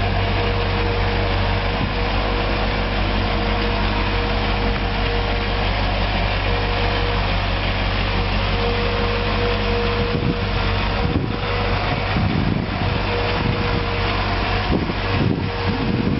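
Propane-fuelled engine of a GMC C7500 tank truck idling steadily, with a constant low hum and a steady mid-pitched tone. Uneven low rumbles come in over the last several seconds.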